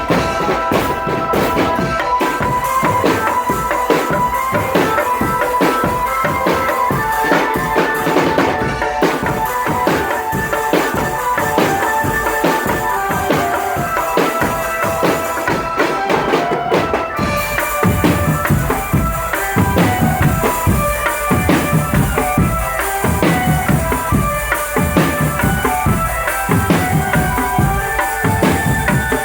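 Marching drum band playing a tune: a steady beat of bass and snare drums under a stepping melody line.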